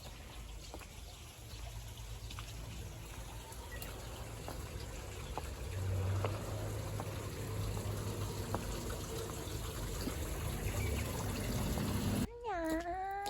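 Steady trickle of running water that grows a little louder partway through. Near the end it cuts to a short sliding call.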